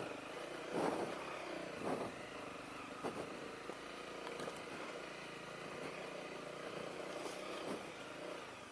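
Honda CRF250L's single-cylinder four-stroke engine running at a low, steady speed, with a few short knocks in the first two seconds.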